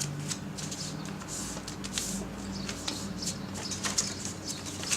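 Square sheet of origami paper being folded and creased by hand: irregular rustling with scattered sharp crackles of the paper.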